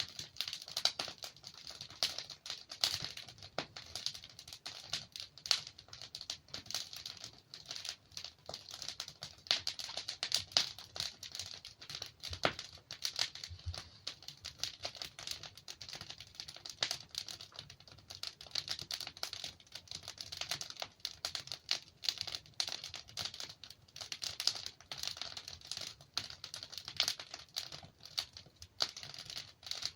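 Wood fire burning in a fireplace, with dense irregular crackling and scattered sharper pops from the logs.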